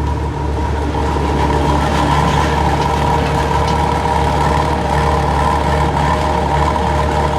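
Heavy vehicle engine running steadily at a constant speed: a deep rumble with a steady whine over it.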